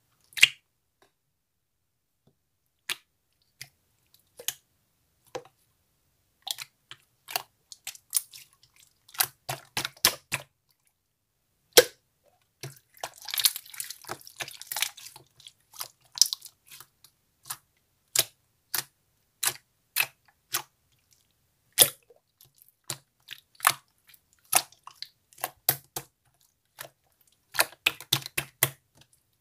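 Clear slime being handled, giving sharp clicks and pops at irregular intervals, with a denser run of crackling a little before halfway.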